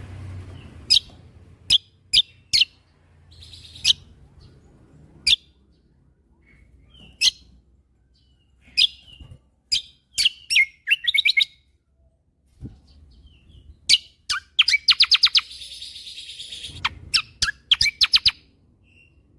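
Kecial kombo (cucak kombo) songbird singing in sharp, high chirps spaced irregularly, broken by quick runs of repeated notes: the rapid 'tembakan' bursts of a bird in full song, the longest about three-quarters of the way through.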